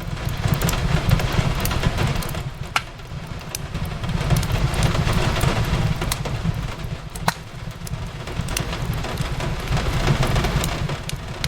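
Steady rain hissing, with the sharp, irregular pops and crackles of a wood fire in a fireplace over a continuous low rumble.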